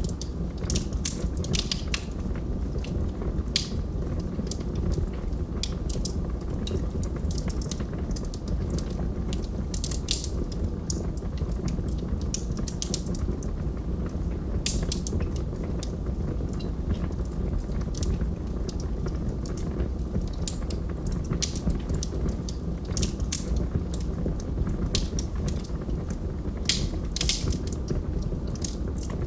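Wood logs burning in a fireplace: a steady low rumble of the flames with frequent sharp crackles and pops.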